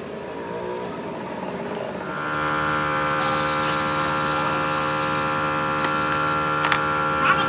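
An electric motor comes up to speed about two seconds in and then runs with a steady hum. A hiss rides over it for a few seconds in the middle.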